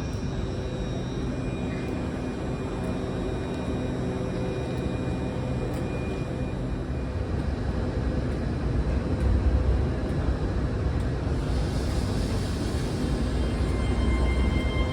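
British Rail Class 52 Western diesel-hydraulic locomotive D1015's twin MTU V12 diesel engines running with a steady, deep drone that grows louder about nine seconds in. A short hiss comes about twelve seconds in.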